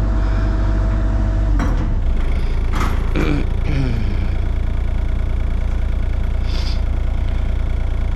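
Engine of the heavy lifting equipment running steadily, its note changing about a second and a half in.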